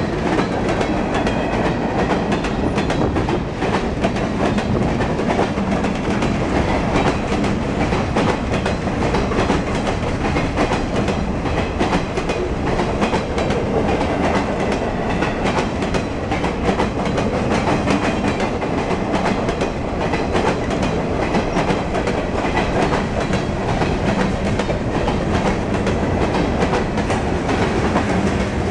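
Freight train's cars rolling past, steel wheels on rail giving a steady rumble with clickety-clack over the rail joints.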